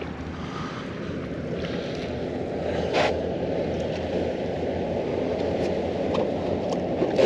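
Steady rush of wind and water around a small fishing boat, with wind buffeting the head-mounted microphone. A few short sharp clicks or knocks stand out, the loudest about three seconds in and another near the end.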